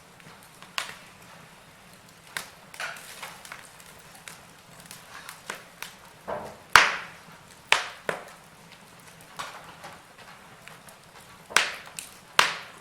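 Wood fire burning in a fireplace: irregular crackling with sharp pops, the loudest about seven seconds in and two more near the end.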